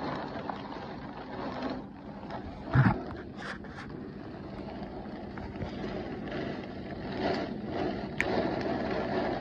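Heavy rain pouring in a severe thunderstorm, with gusting wind, and one brief thump a little under three seconds in.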